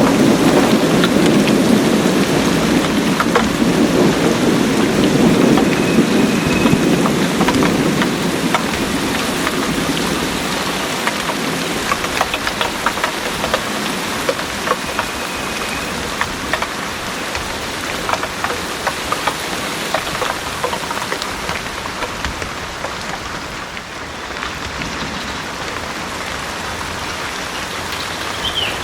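Heavy rain pouring steadily, with individual drops ticking close by. A low rumble of thunder fades away over the first several seconds.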